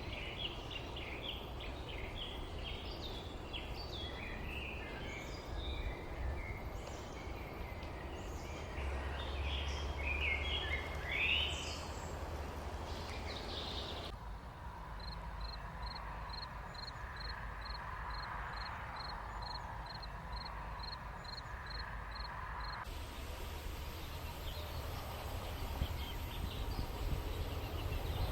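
Outdoor ambience of many small birds chirping over a steady low rumble. About halfway through the sound changes abruptly to a single high note repeated about twice a second.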